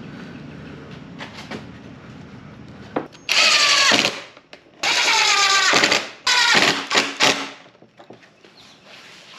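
Power drill running in three short bursts, each dropping in pitch as it goes, with light handling ticks between and after.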